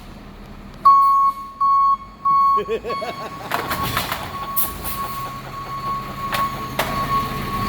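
An electronic beeper sounding three short high beeps, then holding one continuous tone, over a truck engine running steadily, with a few sharp metallic clanks.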